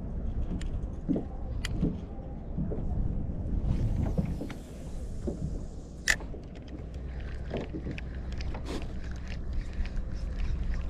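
Wind rumbling on the microphone and choppy water slapping against a fishing kayak, with scattered small clicks and knocks, one sharp click about six seconds in.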